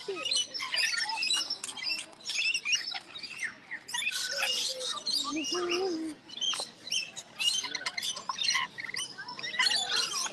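Several small birds chirping and tweeting with many short, overlapping calls, plus a lower call about halfway through.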